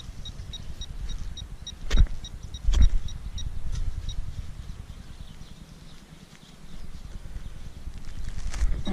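A steel digging shovel driven into turf and soil to split a dirt plug, with two sharp thuds about two seconds in and another near the end, over low scraping and handling noise. Faint, even electronic pips run throughout, about three a second.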